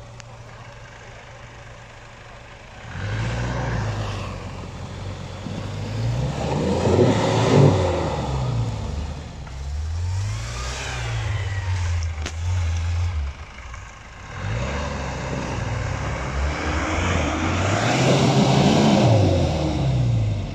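Jeep Cherokee XJ engine idling, then revving up and down repeatedly from about three seconds in as it works the vehicle through a muddy, snowy rut, with a short lull in the middle.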